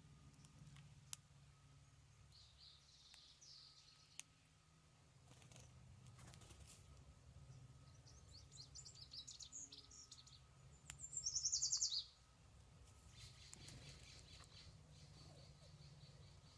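Birds chirping, with a loud, rapid trill of quickly repeated high notes about eleven seconds in.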